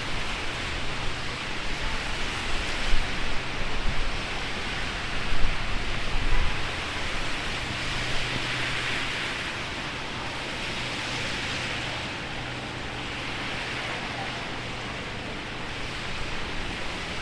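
Heavy rain falling steadily as a dense hiss, with gusts of wind buffeting the microphone during the first six seconds and a faint low hum underneath.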